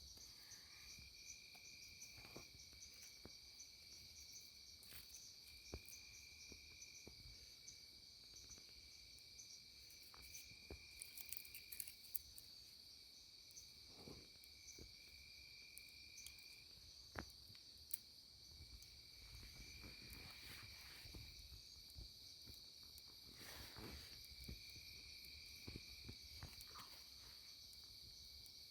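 Faint night chorus of insects, crickets among them: a steady high trill, with a lower buzzing trill that comes and goes in stretches of a second or two. A few faint clicks are scattered through it.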